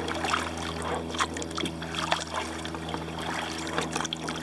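Kayak paddle strokes: water dripping and splashing off the blades in short irregular splashes, over a steady low hum.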